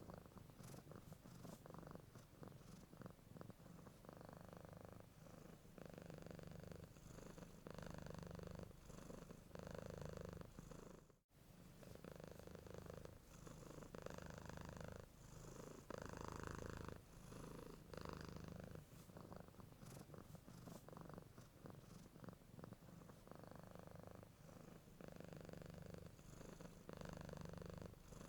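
A domestic cat purring steadily and faintly close up, the purr swelling and easing with each breath in and out. It cuts out for an instant about eleven seconds in.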